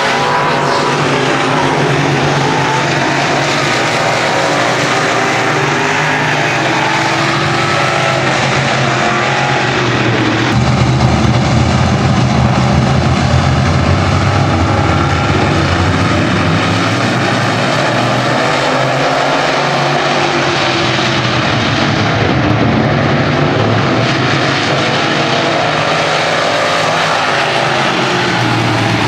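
Racing engines running continuously at speed, several pitches wavering against one another, growing a little louder about ten seconds in.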